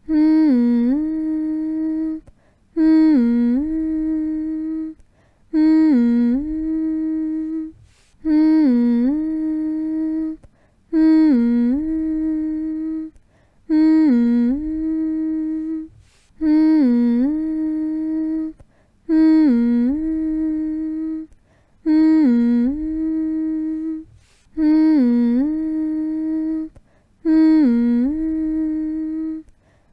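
A voice humming the same short phrase over and over, about eleven times: each phrase dips in pitch, rises back and holds a steady note for a couple of seconds, with a short break before the next.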